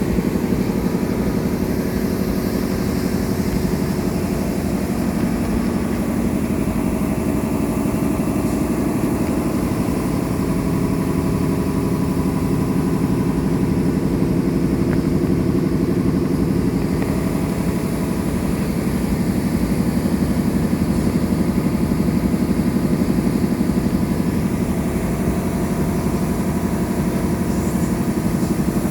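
A machine running steadily with a fast, even pulse, like an engine at idle, unchanged throughout.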